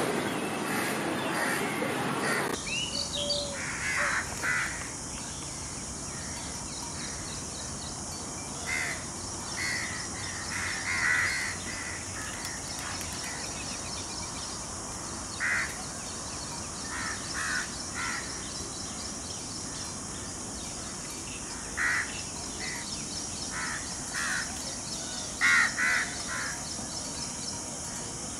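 Birds calling outdoors: short, harsh calls, singly and in quick pairs, scattered over a steady high hiss. For the first two seconds or so a louder rough noise covers them and then cuts off suddenly.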